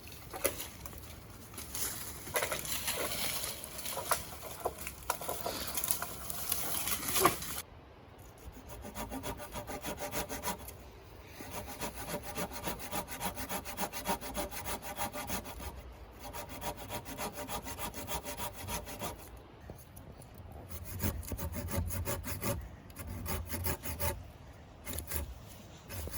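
Hand saw cutting through wood in repeated back-and-forth strokes. The sound changes abruptly about a third of the way in, and after that a faint metallic ringing lies over the strokes.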